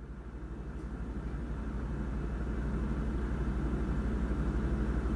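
A low, rapid throbbing rumble like a running engine, fading in over the first second or so and then holding steady.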